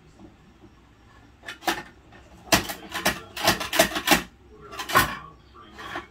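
Hard plastic clattering and knocking from a Bruder toy garbage truck handling toy bins: about a dozen sharp knocks, clustered between one and a half and five seconds in.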